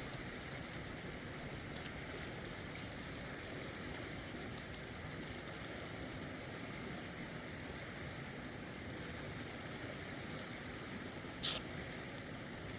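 Steady rushing of a mountain river's flowing water, with a single sharp click or knock near the end.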